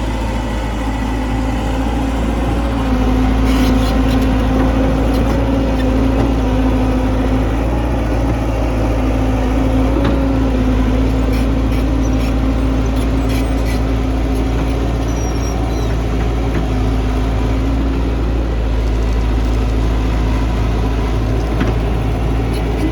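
Diesel engine of heavy earthmoving equipment running steadily under a deep, even rumble, with a few faint clanks.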